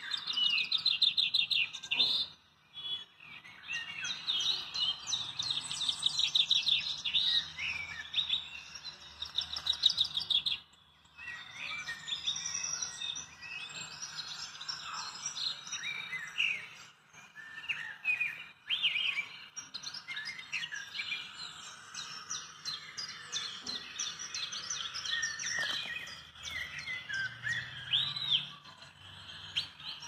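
Many birds chirping, with overlapping high calls and quick trills that go on almost without a break. There are short lulls about two and a half seconds in and again around eleven seconds.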